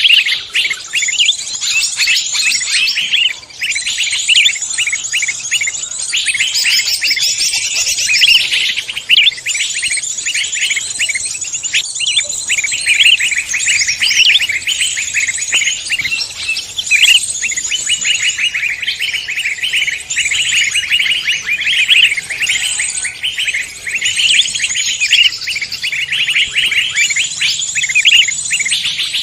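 A dense chorus of many songbirds singing at once, with rapid, high overlapping chirps, trills and chatter that never stop: a mixed forest-songbird recording of the kind played to lure other birds.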